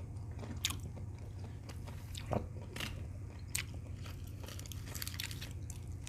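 A person chewing a mouthful of beef tocino and rice close to the microphone, with irregular wet mouth clicks and smacks.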